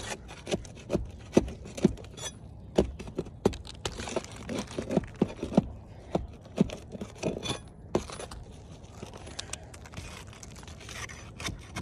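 Irregular clicks, taps and light scrapes of small hard objects being handled and knocked together during a repair, with a quieter pause of a few seconds near the end.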